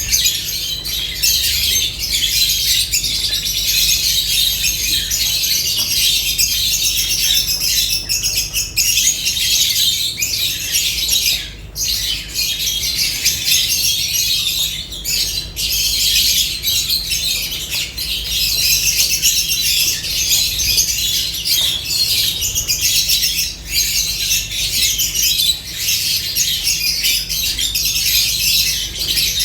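A flock of lovebirds chattering and squawking continuously in shrill, overlapping calls, with a steady low hum underneath.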